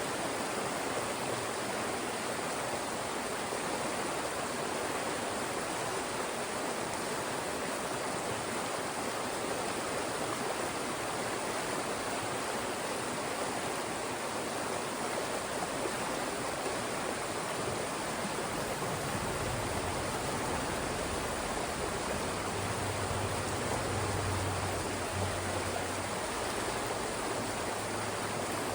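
Fast mountain stream rushing through narrow rock channels: a steady, even rush of water. A low hum joins underneath about two-thirds of the way through.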